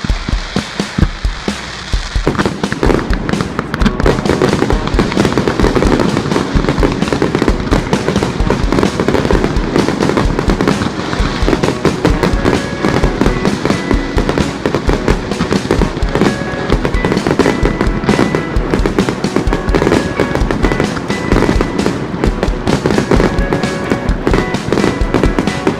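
Fireworks banging and crackling over music with a steady beat; the fireworks come in and thicken about two seconds in.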